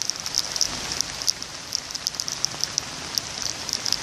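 Steady rain falling, with many irregular, sharp drop ticks from drops landing close by.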